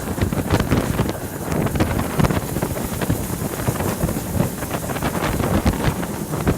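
Wind buffeting the microphone: a loud, uneven low rumble with irregular flutter.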